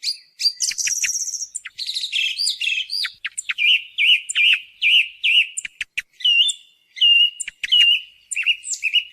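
Song thrush singing: a run of varied whistled and chirping phrases with short gaps, some notes repeated several times in a row.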